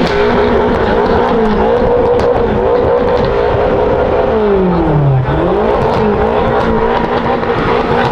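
Car engine revving hard and held at high revs, its pitch wavering; about halfway through the revs drop sharply and climb back, and near the end they fall again.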